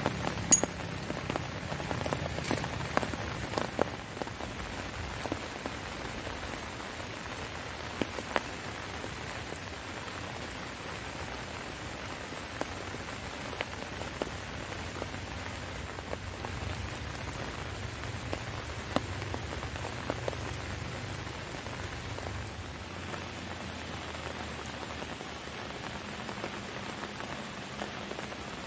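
Steady rain falling, with scattered sharp taps of heavier drops hitting a surface, most frequent in the first few seconds.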